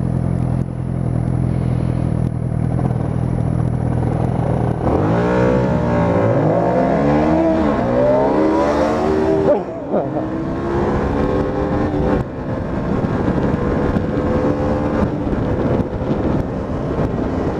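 Yamaha YZF-R125's single-cylinder four-stroke engine running steadily, then accelerating from about five seconds in, its revs climbing and falling through several gear changes. The engine note cuts back sharply near the middle, then pulls on steadily with slowly rising revs.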